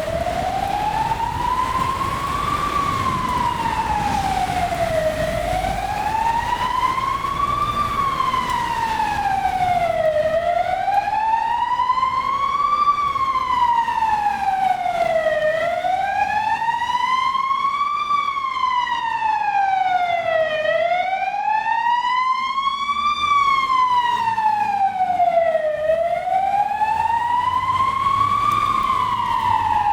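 Ambulance siren on a slow wail, its pitch rising and falling smoothly about once every five seconds. A low rumble sits beneath it for the first ten seconds or so.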